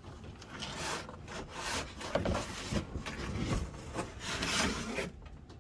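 Cardboard and plastic packaging rubbing and scraping in irregular strokes as a boxed RC truck is worked out of its box; the scraping stops shortly before the end.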